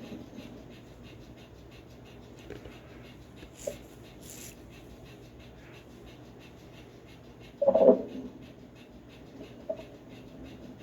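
Played-back recording of the purported 'Euphrates creature' sounds: a faint steady hiss with a few small clicks, and one short, loud, low voice-like sound lasting about half a second, about eight seconds in.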